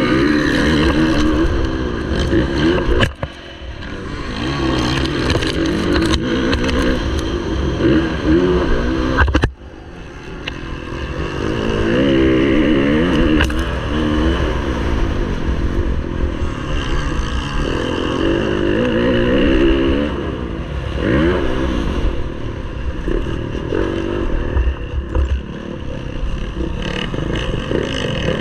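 Motocross bike engine being ridden hard, its note repeatedly climbing as it revs and dropping as the throttle closes. The sound cuts off sharply twice, about three and nine seconds in, as the throttle is shut.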